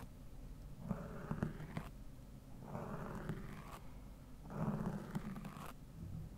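A brush stroked slowly and evenly across a Blue Yeti microphone. There are three strokes of about a second each, roughly two seconds apart, and a fourth begins near the end, each a soft rasping sweep with a few small ticks.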